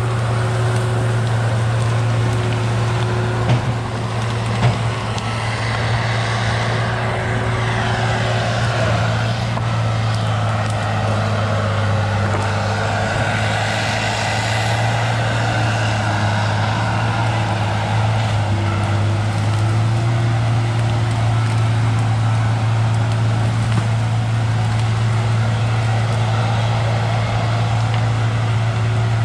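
Engine running steadily with a constant low hum, with two short sharp clicks about four seconds in.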